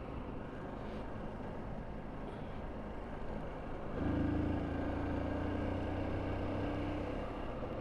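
Motorcycle riding along with steady wind and road noise; about four seconds in, a steady engine hum grows louder for about three seconds, then eases back.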